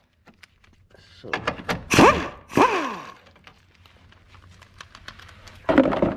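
Clunks and knocks from parts being handled and worked loose in a car's engine bay, with a couple of short squeaks that rise and fall in pitch, mostly in the first half and again near the end.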